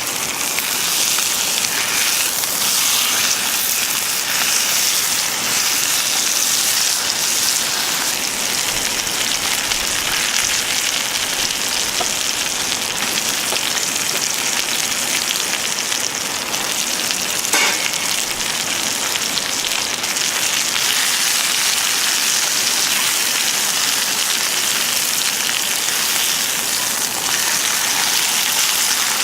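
Food sizzling steadily in a hot skillet over a wood fire, with a single sharp click a little past the middle.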